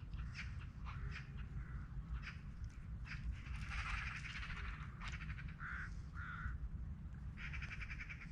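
Birds calling: a string of short calls, then a longer buzzy call near the end, over a low steady rumble.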